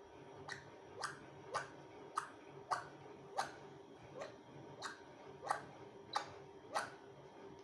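A pet parrot making a series of about eleven short, sharp calls, each dropping quickly in pitch, repeated at an even pace of a little under two a second.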